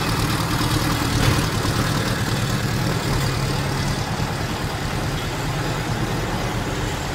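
Old car's engine idling steadily.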